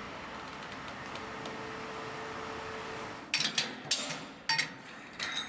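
A vehicle running steadily, then from about three seconds in a series of sharp metallic clanks and knocks.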